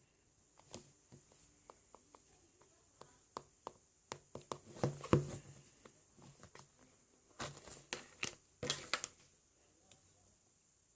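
Scattered small clicks, taps and rustling, as of objects or paper being handled, with the busiest stretches about five seconds in and again around eight to nine seconds in.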